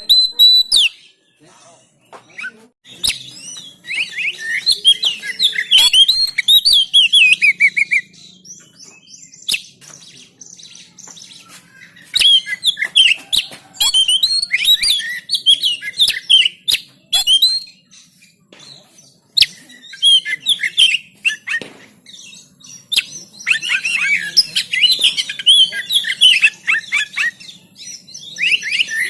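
Oriental magpie-robin (kacer) in full song: loud, rapid phrases of varied whistles and sharp notes, delivered in bursts of a few seconds with short pauses between.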